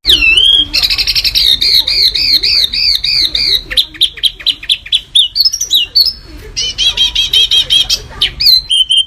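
A songbird singing loud, sharp and rapid song bursts: first a row of about seven quick repeated arched whistles, then fast clipped chattering notes, then a buzzy trill near the end, the dense 'tembakan' phrases prized in a master recording for training songbirds.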